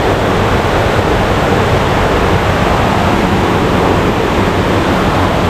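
Loud, steady rush of falling water from a waterfall or river cascade.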